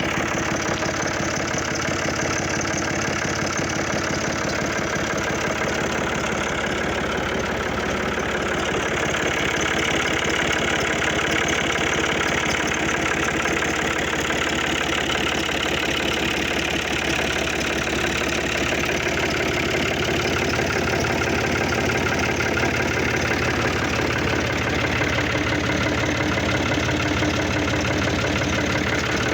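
Fiat 480 tractor's diesel engine idling steadily with an even knock, a little louder from about nine seconds in.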